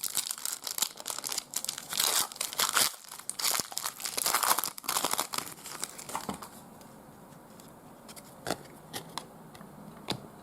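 Crinkling and tearing of a trading card pack's wrapper as it is ripped open by hand, for about six seconds, then a few light clicks as it quiets down.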